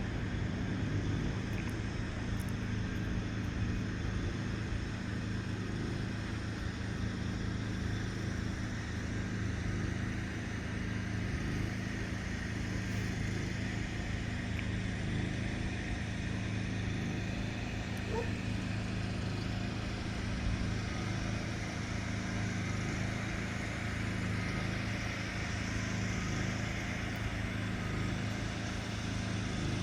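A vehicle engine idling with a steady low hum that does not change.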